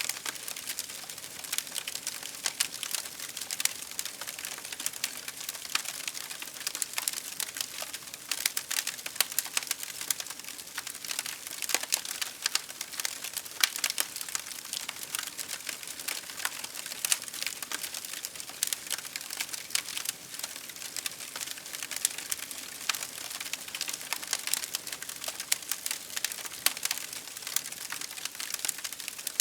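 Wood fire crackling steadily, with a constant stream of small sharp pops and snaps over a soft hiss.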